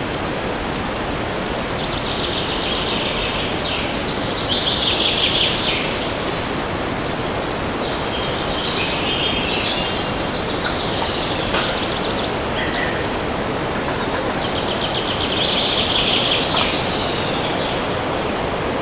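Steady rushing wind in forest trees, with a songbird singing rapid trilled phrases four times, the loudest phrases near the middle and toward the end.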